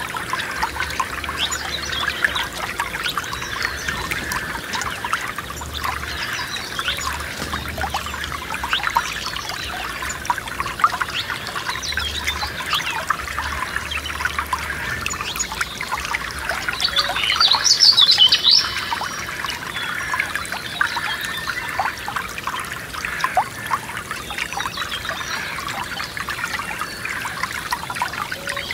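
Forest stream trickling and babbling steadily. A songbird sings a short run of quick high notes about two-thirds of the way in, and fainter chirps come and go.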